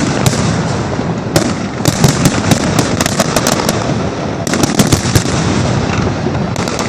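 Fireworks display going off: a rapid, dense string of sharp crackling reports and pops over a continuous rumble of bursts.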